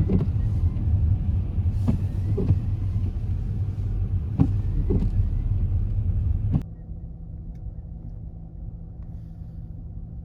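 Car running with a steady low rumble and a few sharp knocks. About six and a half seconds in it cuts off abruptly to a quieter steady low hum.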